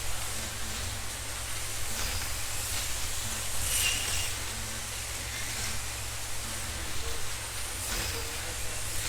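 1/32 scale slot cars racing around a commercial track: a steady whine and hiss of small electric motors and tyres, with cars sweeping past every few seconds.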